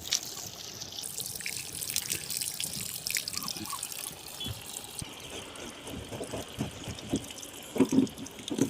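Water trickling and dripping steadily, with a few small clicks and taps.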